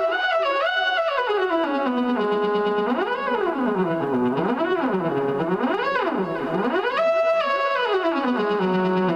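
Moog Theremini played through a small Fender Frontman G10 guitar amp: one continuous tone that swoops up and down in wide glides, now and then settling briefly on held notes.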